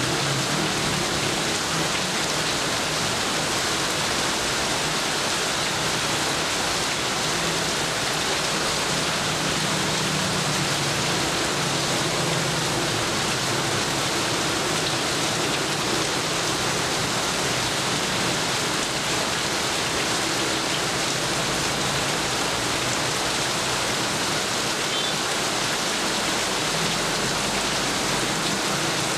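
Heavy rain falling steadily, an even hiss of rain on surfaces that stays at one level throughout.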